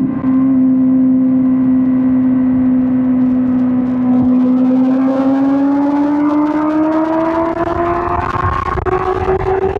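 2005 Suzuki GSX-R1000 K5's inline-four engine pulling on the road. It holds a steady note for about four seconds, then rises slowly in pitch as the bike accelerates.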